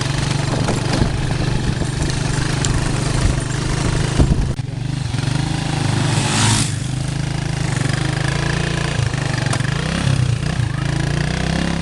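Motorcycle engine running steadily while the bike is ridden, heard from on board. There is a brief hissing rush about six and a half seconds in.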